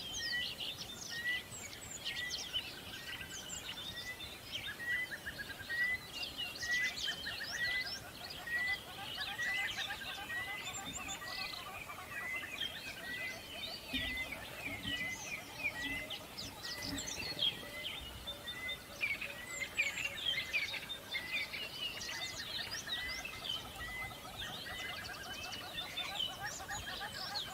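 Many birds chirping and twittering together, with one bird repeating a short call at a steady pace, about one and a half times a second.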